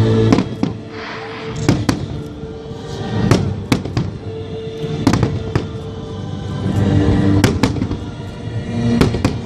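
Fireworks exploding overhead: about a dozen sharp bangs and crackles at irregular intervals, with music playing steadily underneath.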